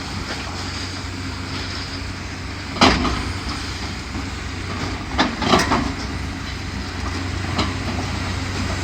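Heavy demolition machine's diesel engine running steadily while it tears at a building's roof. There is a loud crash about three seconds in, a cluster of bangs a little past five seconds, and a smaller knock near the end.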